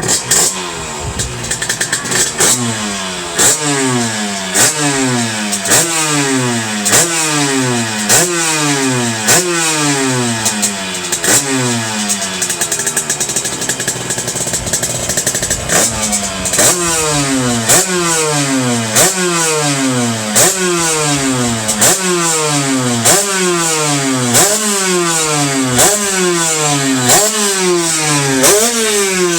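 50cc two-stroke engine with a new Kaos expansion-chamber exhaust on its first start-up, blipped repeatedly: each burst of throttle sends the revs up, and the pitch falls back before the next, about once a second, with a short steadier stretch about midway.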